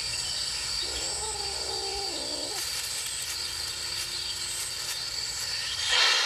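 Cats giving drawn-out, wavering mating yowls over a steady chirring of crickets, followed near the end by a short, loud hiss.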